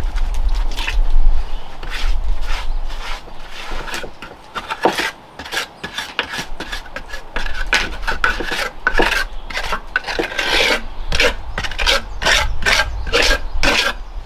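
Repeated rasping, scraping strokes, irregular at first and then quicker, about two or three a second, over a low steady rumble.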